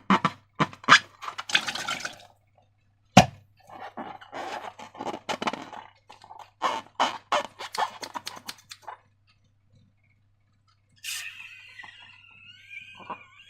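Wet slime being squished and worked by hand, making irregular sticky crackles and squelches, with one sharp snap about three seconds in. After a short pause, a wavering rubbery squeal starts near the end.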